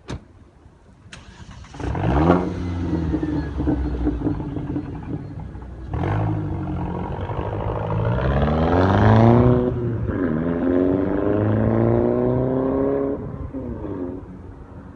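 Mercedes C200 Kompressor's supercharged four-cylinder engine through a full stainless-steel aftermarket exhaust with AMG 63-style tailpipes: it starts about two seconds in after a couple of clicks, runs steadily, then is revved up twice with a rising pitch, each rev dropping off sharply before it settles back near the end.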